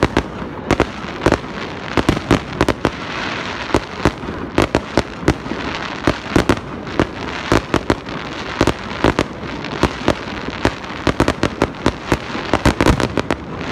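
Aerial fireworks bursting: a dense, irregular run of sharp bangs, often several a second, over a steady crackling hiss.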